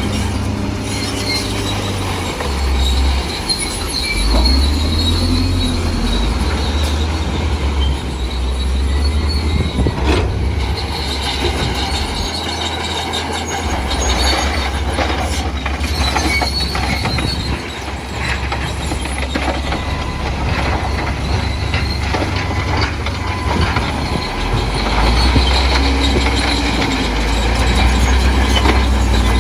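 Crawler bulldozer working, its diesel engine running low under high-pitched squealing and scattered clanking from its steel tracks.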